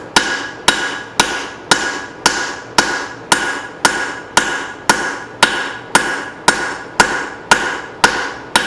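Hammer blows on hot leaf-spring steel over an anvil as a hatchet blade is widened. The strikes are sharp, evenly spaced at about two a second, and each one rings briefly.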